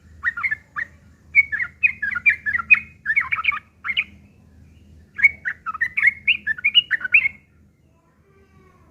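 Yellow-vented bulbul (trucukan) singing in rapid, harsh, bubbly chattering phrases. There are two bursts, the second starting about a second after the first ends.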